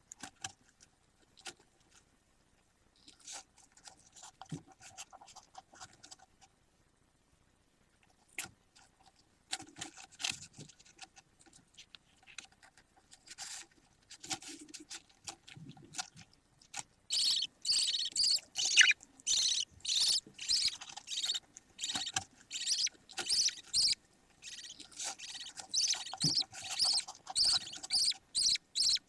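Budgerigar chick calling: quiet, scattered chirps and rustles at first, then, about two-thirds of the way in, a long run of loud, high, rapidly repeated cheeps, about two a second.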